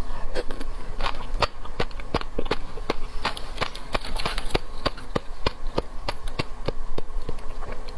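Close-miked clicking and crackling from handling and eating raw sea urchin, about three or four sharp clicks a second.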